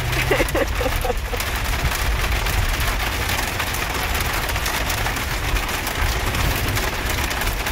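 Steady rain falling on the roof and windshield of a Jeep Wrangler, heard inside the cabin, with many fine ticks from the drops, over the low rumble of the Jeep driving.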